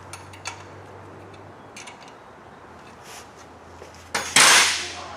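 A few light clicks and ticks of hand work on an engine, then a short loud rush of hissing noise about four seconds in that lasts under a second.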